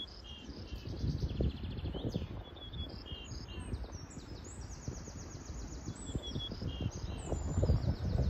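Birds chirping and trilling, with short high notes and quick trills repeating throughout, over a low, uneven rumble of wind on the microphone.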